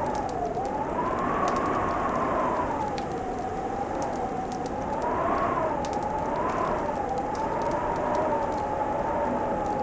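Wood fire crackling with scattered sharp pops, under a wind that howls in a slowly wavering, whistling tone that rises and falls every second or two.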